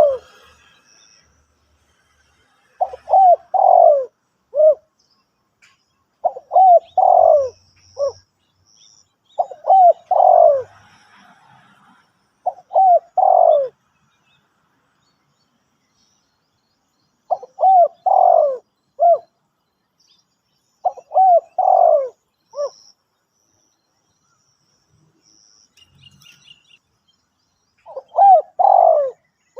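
A spotted dove cooing in a series of short phrases. Each phrase has three or four coos that rise and fall in pitch, and seven phrases come a few seconds apart with a longer pause midway. Faint high chirps of another small bird are heard between the phrases.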